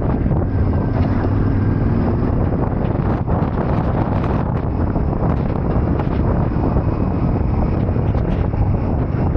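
Steady wind buffeting on the microphone over a Yamaha Ténéré 700's parallel-twin engine running at a constant pace while riding.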